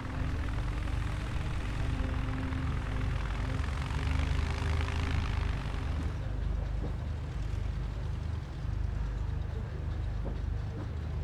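Light propeller aircraft's piston engine running as it passes, loudest about four to five seconds in and then fading.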